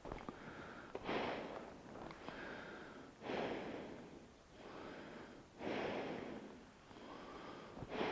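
A person breathing heavily close to the microphone: about four full breaths, a softer breath then a louder one, roughly every two seconds.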